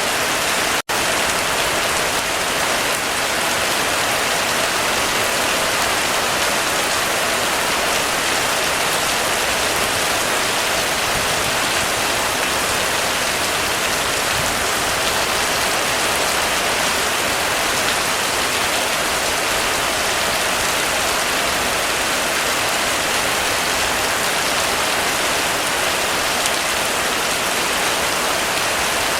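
Heavy rain falling steadily on a roof: a dense, even patter and hiss. The sound drops out for an instant about a second in.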